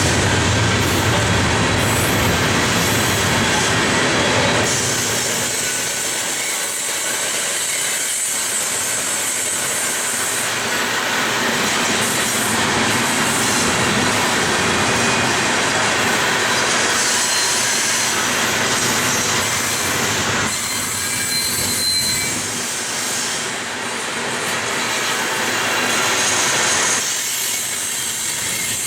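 Cars of a Union Pacific coal train rolling past, steel wheels clattering steadily over the rails, with a brief high wheel squeal a little past the middle.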